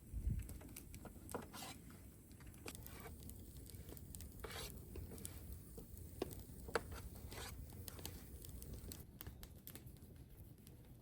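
Faint handling noises: scattered light clicks and a few short rustles, with a low thump right at the start.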